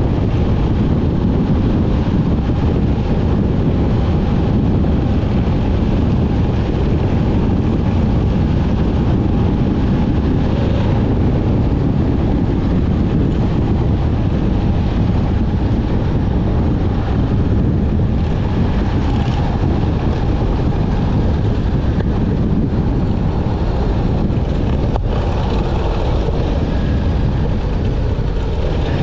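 Motorcycle on the move at a steady pace: engine running under a rush of wind on the microphone, holding a steady level.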